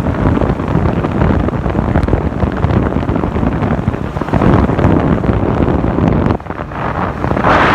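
Wind buffeting the microphone of a camera on a moving motorcycle, over the motorcycle's engine and road noise. It dips briefly a little after six seconds, then rises to a louder rush near the end.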